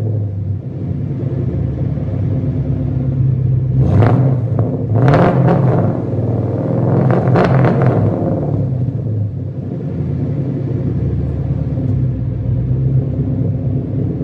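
Ford Mustang GT's 5.0 V8 through Flowmaster Outlaw axle-back mufflers and an off-road X-pipe, idling after a cold start. It is blipped up in a few short revs between about 4 and 8 seconds in, then drops back to a steady idle.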